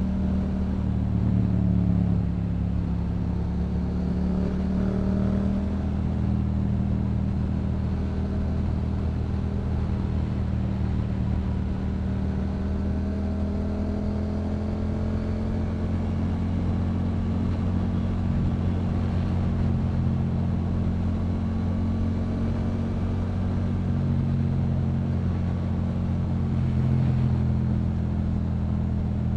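Yamaha MT-07's 689 cc parallel-twin engine through a Yoshimura aftermarket exhaust, running at a steady cruise with only small rises and falls in engine speed.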